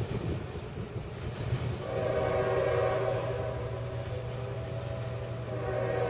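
Diesel freight locomotive air horn sounding a steady multi-note chord from about two seconds in, over the noise of a passing freight train. The horn eases slightly midway and swells again near the end.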